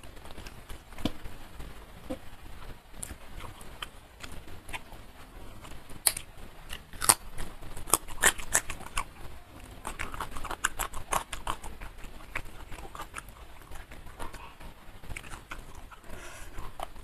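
Close-miked chewing and wet lip smacks of someone eating rice and fried fish with sambal by hand, with irregular sharp clicking mouth sounds that come thickest in the middle.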